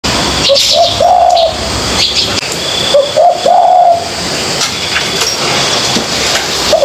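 Spotted dove cooing: two phrases about two and a half seconds apart, each a short lead note followed by longer arched coos. Higher chirps of small birds sound in the background.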